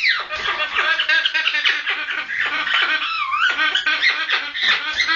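Red-lored Amazon parrot giving its mating call: a continuous run of rapid, chattering, squeaky calls, with a swooping note that dips and rises again about three seconds in.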